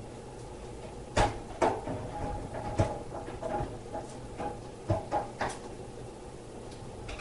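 A handful of sharp knocks and clunks, about five over a few seconds, the loudest about a second in, over a steady low hum.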